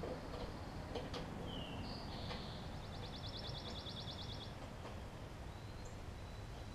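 A bird singing: a short whistled note, then a fast, even trill of about ten notes a second lasting about two seconds, over a steady low hum with a few faint clicks.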